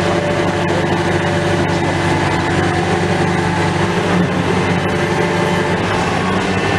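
Heavy engine running steadily at a constant pitch, as from demolition machinery at work.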